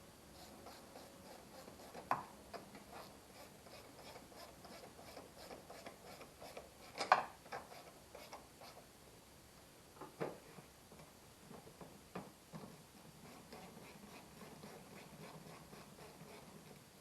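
Hand-tool work on the engine: a faint, fast ticking with a few sharp knocks, the loudest about seven seconds in.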